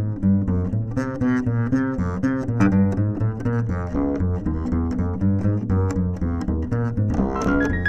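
Double bass heard through a CP-1 contrabass pickup with no EQ, reverb or compression, playing a quick line of notes, about four a second. Brighter, higher notes come in near the end.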